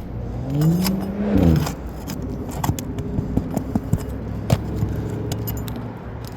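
Metal roofing tool clinking and scraping against old three-tab asphalt shingles and their nails while the seals are broken and the nails pried up. A short squeal rises and falls about a second in, and a steady low hum runs under the clicks.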